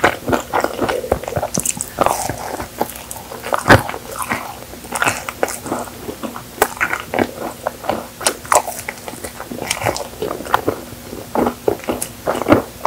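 Close-miked eating: wet chewing and mouth smacks on a chocolate-coated marshmallow cookie, a quick irregular run of soft clicks, with one louder click about four seconds in.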